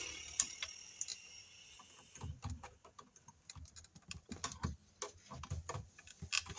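Four bare copper ground wires being twisted tight together by hand: a scrape of wire on wire, then a run of small irregular clicks of copper strands rubbing and catching.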